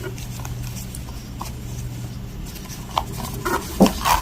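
A few faint clicks and light taps as a small jewelry box is handled, over a steady low hum.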